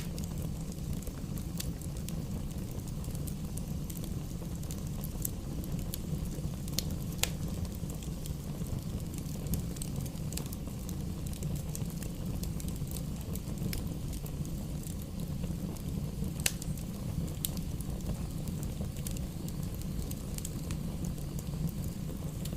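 Fire burning in a fireplace: scattered sharp crackles and pops over a steady low rumble, with a couple of louder pops.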